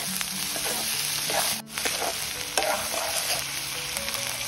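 Smoked chicken pieces and crushed ginger, garlic and chilli sizzling in oil in a black iron wok, stirred and scraped with a metal ladle. The sizzle cuts out for an instant about a second and a half in.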